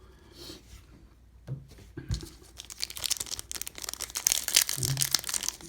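Foil wrapper of a baseball card pack being torn open and crinkled by hand, a dense crackle that starts about halfway through and grows louder.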